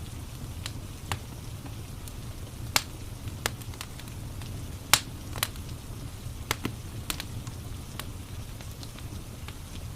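Wood fire crackling in a fireplace: irregular sharp pops, a dozen or so, the loudest about three and five seconds in, over a steady low rumble.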